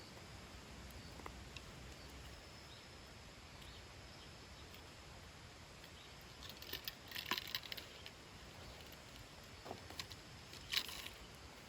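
Quiet ambience with a few small sharp clicks and rustles, bunched together a little past halfway and one more near the end.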